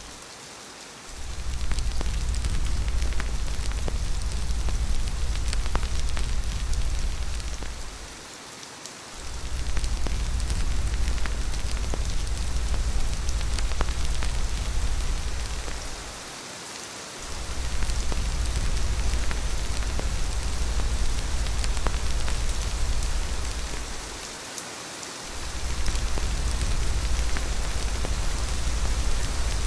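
Steady rain pattering on a surface, with scattered sharp drop ticks. Under it runs a deep low rumble that cuts out for about a second roughly every eight seconds, four times in all.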